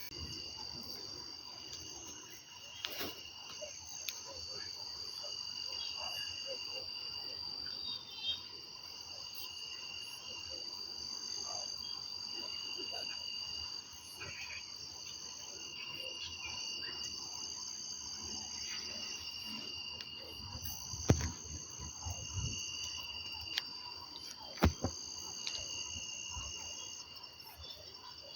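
Crickets and other insects chirping in steady, overlapping high trills that start and stop in long stretches, with a few sharp knocks, the loudest about three-quarters of the way through.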